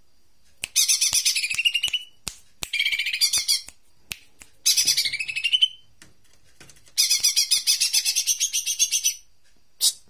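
Jomin bird song: four fast, buzzy, chattering phrases of one to two seconds each, each ending in a rising note, then one short call near the end.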